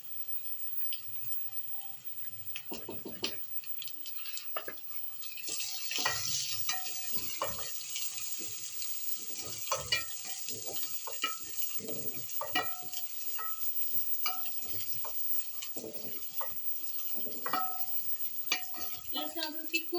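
Sliced onions frying in oil in an aluminium pot, sizzling, while a wooden spoon stirs them and repeatedly scrapes and knocks against the pot. The sizzle grows louder about five or six seconds in.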